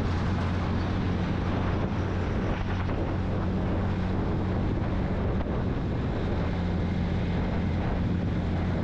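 Vehicle engine running at a steady cruise on the road, a constant low hum, with wind rushing over the microphone.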